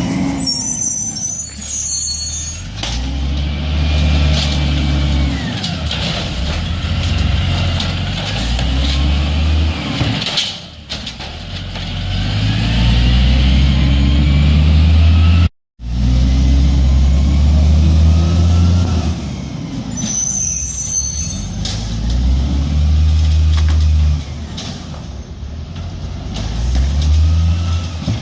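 Garbage truck's diesel-type heavy engine rising and falling in pitch again and again, with a sharp hiss of air brakes near the start and again about twenty seconds in.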